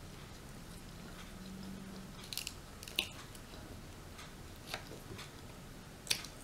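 A person chewing and biting rotisserie chicken close to the microphone. The eating is faint, with a few short wet mouth clicks, the sharpest about three seconds in and again near the end.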